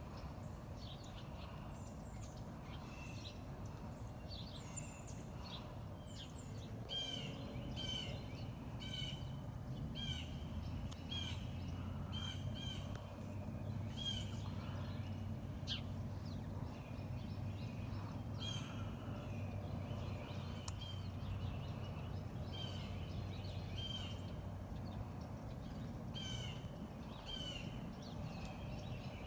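Small songbirds chirping in many short, repeated notes, over a low steady rumble.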